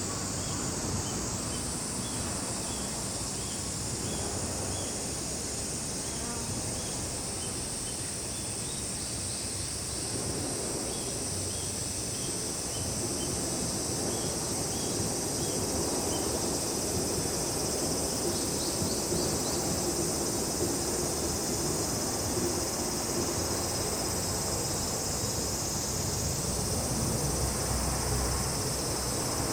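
Summer insect chorus of cicadas and crickets: a steady high shrill with short, evenly repeated chirps through the first third. A low rumble builds up under it in the second half.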